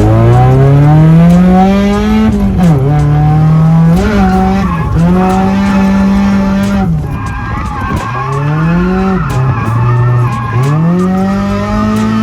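Drift car engine revving hard, its pitch climbing and holding high, then dropping sharply and climbing again several times, with tyres skidding and squealing through the slide.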